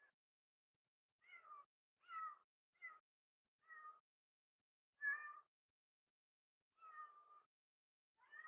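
An animal's short, pitched mewing calls, about seven of them at uneven intervals, each under a second, with silence between.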